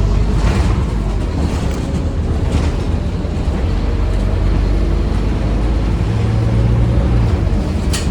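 Scania OmniCity bus running with a steady low diesel rumble. A short low hum rises out of it a little past the middle, and a sharp click comes near the end.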